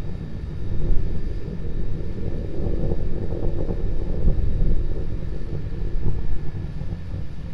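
Starship SN9's Raptor rocket engines burning in flight, a steady low, crackling rumble that grows louder about a second in.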